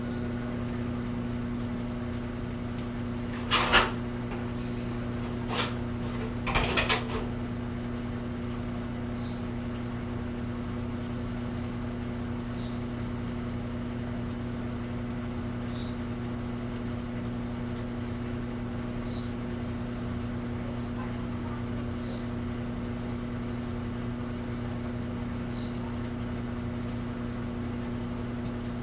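Steady mechanical hum of a running laundry machine, with a few knocks about four and seven seconds in and a faint short chirp about every three seconds.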